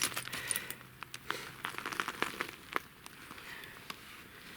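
A freshly caught fish flapping while being handled, with irregular crinkling and sharp clicks that thin out after about three seconds.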